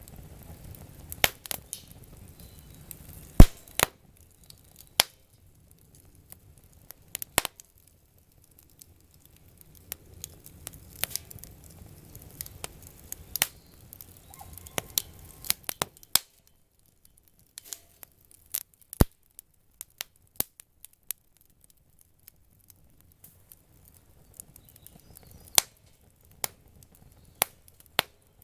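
Wood fire crackling: irregular sharp pops and snaps, the loudest about three and a half seconds in, over a faint low rumble at times.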